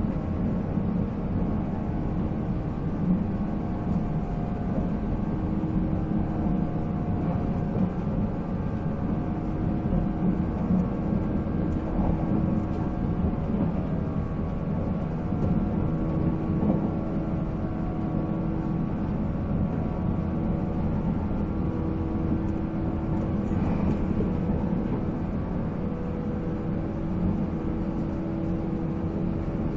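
485-series electric multiple unit running at a steady speed, heard from on board: the whine of its MT54 traction motors holds at an even pitch over a continuous rumble of wheels on rail, with a few faint clicks.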